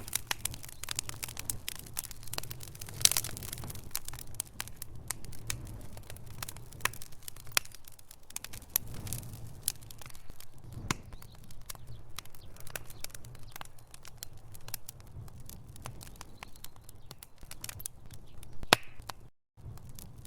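Wood fire crackling in a fireplace: a dense run of sharp snaps and pops from burning logs over a soft hiss, with a louder pop about three seconds in and another near the end. The sound cuts out for a moment just before the end.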